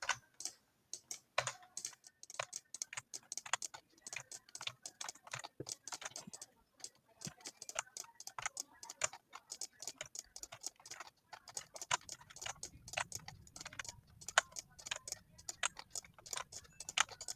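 Computer keyboard typing: quick, irregular key clicks, several a second.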